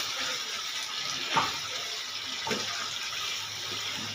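Meat and kachalu frying in oil in a pan: a steady sizzle while a wooden spatula stirs them, with a few short knocks and scrapes of the spatula against the pan, the clearest about a second and a half in.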